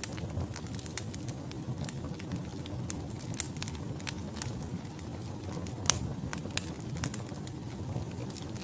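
Wood fire burning in a fireplace: a steady low rumble of flame under irregular crackles and pops of burning logs, one pop standing out about six seconds in.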